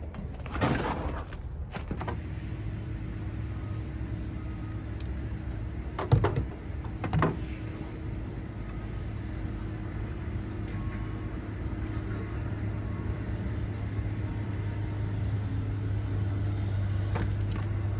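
Motor vehicle running with a steady low hum that grows slightly louder toward the end, with a couple of short knocks about six and seven seconds in.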